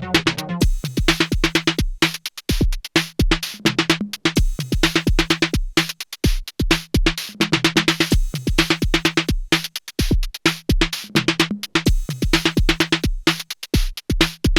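Erica Synths Perkons HD-01 analog drum machine playing a 128 bpm techno pattern. A kick drum lands on every beat under fast high ticking percussion and a pitched, droning tom-like voice. The pattern briefly drops out about every four seconds.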